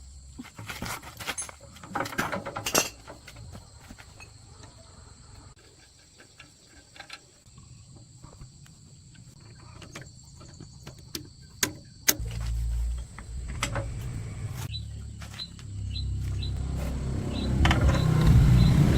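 D24 diesel engine starting and running with a steady low beat from about two-thirds of the way in, briefly dropping away and then running again louder near the end. Before it, scattered clicks and knocks.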